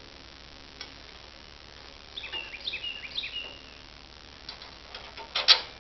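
A bird calling: a quick run of short chirps that fall in pitch, in the middle. Near the end come a few sharp knocks, the last and loudest a moment before the close.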